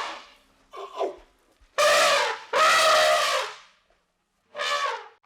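Elephant trumpeting: a call fading out at the start, then a short faint call, two long loud blasts and a last shorter one.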